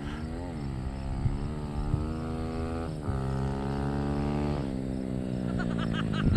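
Dirt bike running at speed on its pass, its pitch rising briefly, holding steady, stepping down about three seconds in, then falling slowly as the bike slows.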